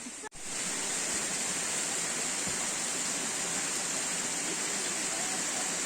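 Waterfall: a steady rush of falling water, which cuts in right after a brief dropout about a third of a second in.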